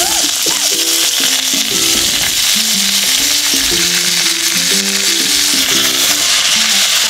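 Chopped shukto vegetables (potato, papaya, yardlong beans, green banana and sweet potato) frying lightly in hot oil, a loud steady sizzle. Simple background music melody plays under it.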